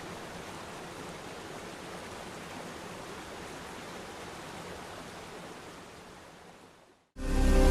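Steady rush of water from a waterfall, fading out near the end. Loud music cuts in just before the end.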